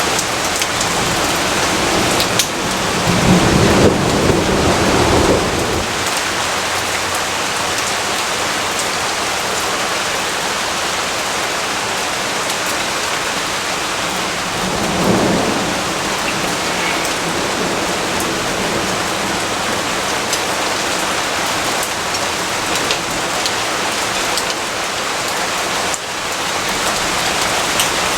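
Steady heavy rainfall with two rolls of thunder: a long low rumble about three seconds in, and a shorter one around the middle.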